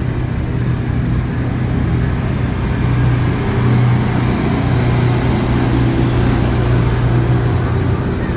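Diesel locomotive running with a steady, loud low hum, swelling slightly about halfway through.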